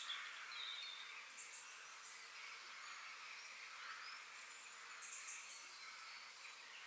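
Faint nature ambience: scattered small bird chirps and brief high buzzy insect trills over a soft steady hiss.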